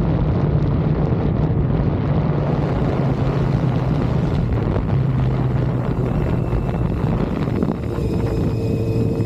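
Honda CBR600F4i's inline-four engine running steadily while riding, with wind rushing over the microphone. There is a brief dip in level near the end.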